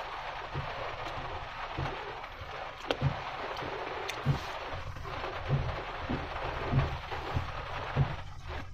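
Steady hiss of rain and wind in a storm, with irregular low thumps about once a second.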